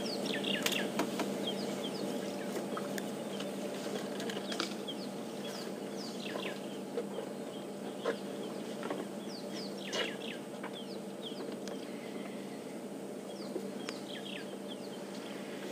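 Wild birds calling: many short, high chirps that sweep downward in pitch, scattered throughout, over a steady low hum.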